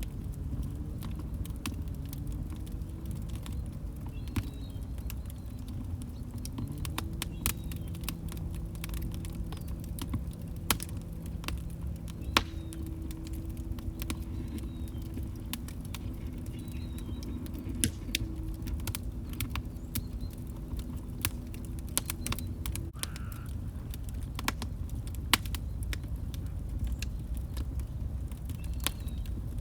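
Log fire crackling, with irregular sharp pops and snaps over a low, steady rumble of burning. A low hum wavers in pitch at first, holds steady, and cuts off about 23 seconds in.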